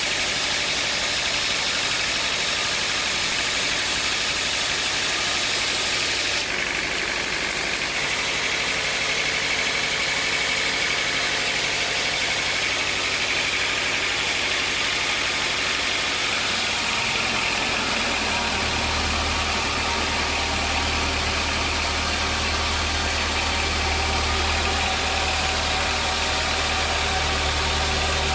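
Sawmill machinery running steadily, with a deeper low hum joining about two-thirds of the way through.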